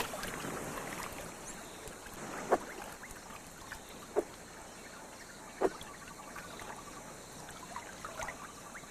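Shallow water sloshing and trickling, with three short, sharp splashes a second or two apart.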